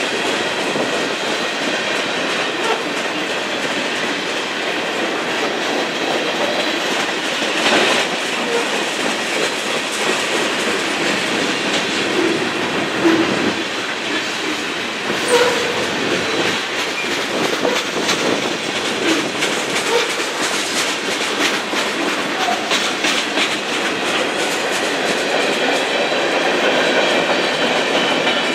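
A freight train's cars rolling past steadily, their wheels clicking rapidly over the rail joints, with a faint wheel squeal now and then.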